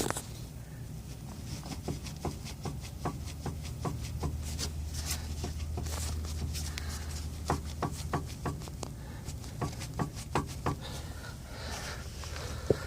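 Irregular clicks and knocks from the right driveshaft of a Renault Megane II, at the intermediate support bearing or inner CV joint: the knock of a shaft with axial play. A steady low hum runs underneath.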